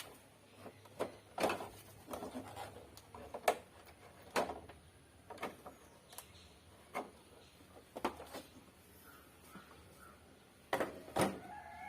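A series of irregular sharp clicks and knocks, about a dozen, spaced unevenly, with two louder ones close together near the end.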